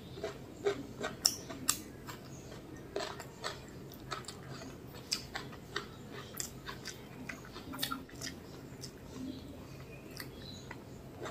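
Close-miked chewing and wet mouth clicks while eating mutton biryani by hand, with fingers working the rice on a banana leaf. Irregular sharp clicks and crackles, densest in the first two seconds.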